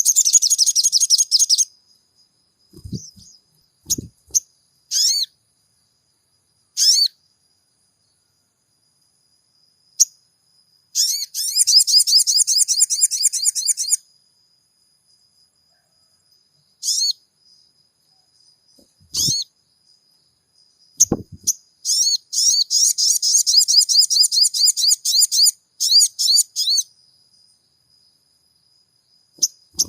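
Sogon bird song: bursts of rapid, high-pitched chattering trills, one at the start, one about eleven seconds in, and a longer one from about twenty-two to twenty-seven seconds in. Short single calls fall between the bursts, with a few low knocks and a faint steady high whine underneath.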